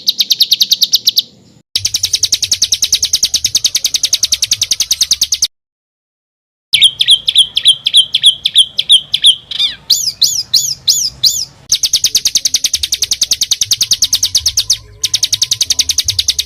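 Songbird song in fast, tight trills of harsh repeated high notes, the 'kasaran roll rapat' material played to train competition birds such as the murai batu. The middle part changes to slower repeated notes and then to swooping rising-and-falling notes. The sections are spliced together, and the sound cuts off abruptly into short silent gaps, the longest about a third of the way in.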